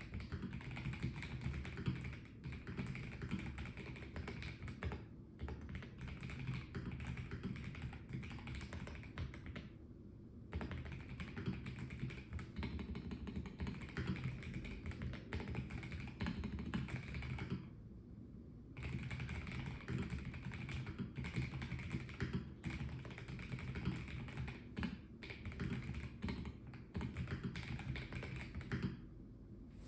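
Typing on a Melgeek Mojo84 mechanical keyboard with a plastic case: rapid, continuous key clicks that break off briefly about ten seconds in, again around eighteen seconds, and near the end.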